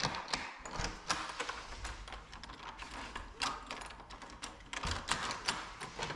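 Irregular light clicks and taps, several a second, from door lock hardware being handled and fitted.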